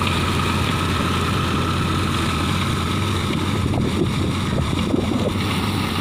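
Mahindra Arjun Ultra-1 555 DI tractor's diesel engine running steadily with a constant low drone.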